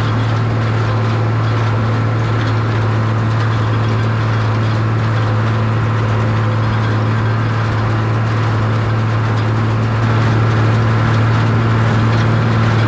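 Farm tractor engine running at a steady speed, a constant low drone.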